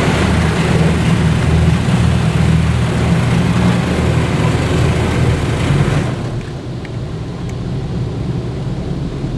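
Self-service car wash equipment running: a loud rushing hiss over a steady motor hum, which drops off sharply about six seconds in and carries on more quietly.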